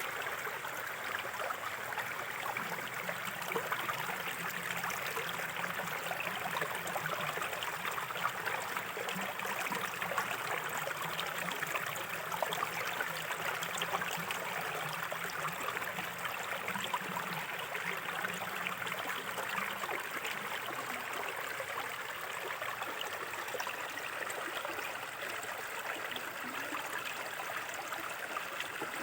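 A small shallow river running steadily, its water babbling and gurgling over stones.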